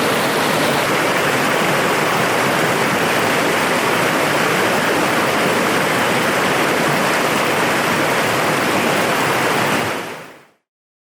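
Steady, loud rushing noise with no distinct events, which fades out to silence near the end.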